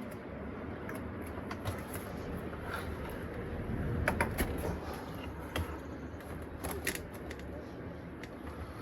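A small box fan exhausting through a window filter runs with a steady hum and rush of air, growing slightly over the first few seconds. A few sharp clicks and taps are scattered through it.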